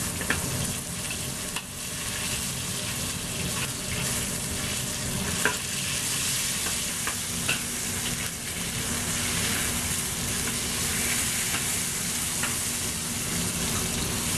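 Sliced marinated chicken breast sizzling in a hot wok while a metal wok spatula stirs and spreads it, with a few sharp scrapes and clinks of the spatula against the wok. The wok is heated well enough that the chicken does not stick.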